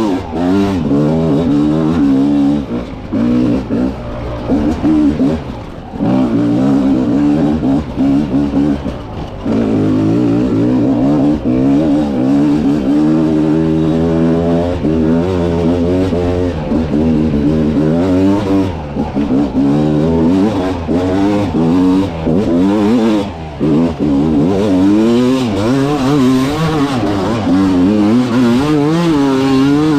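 A 300 cc two-stroke dirt bike engine is revved hard and unevenly as the throttle is worked over rough terrain. The revs rise and fall every second or so, with a few brief drops where the throttle is shut.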